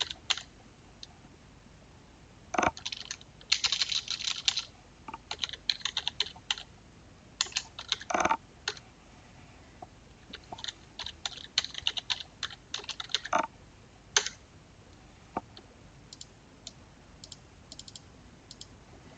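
Typing on a computer keyboard in irregular bursts of rapid keystrokes, with scattered single clicks and pauses between.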